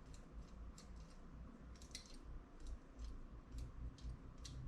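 Faint, irregular small clicks and taps of carburetor parts being handled during reassembly.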